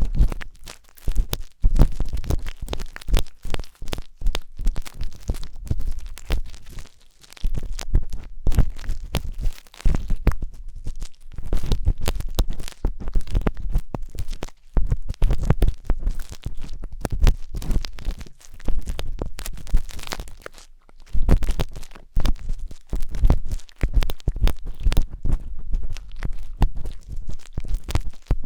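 Wooden skewer scratching and rubbing inside the silicone ears of a 3Dio binaural microphone: dense crackly scraping, broken by a few short pauses.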